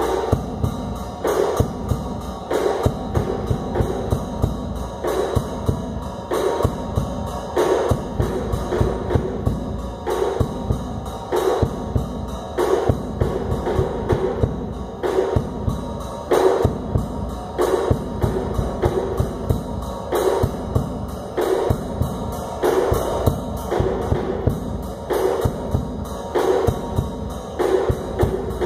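Drum kit playing a steady traditional groove, with dense low drumming and a strong accented hit a little over once a second.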